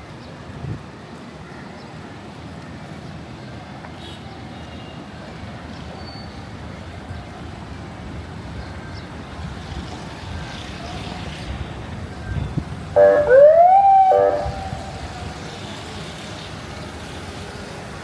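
Steady street traffic noise, cut through about three-quarters of the way in by a single short siren whoop that rises in pitch for about a second.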